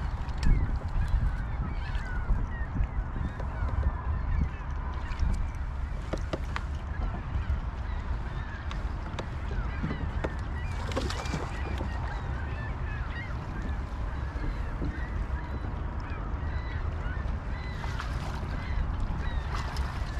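Wind rumbling on the microphone, with many short bird calls scattered throughout.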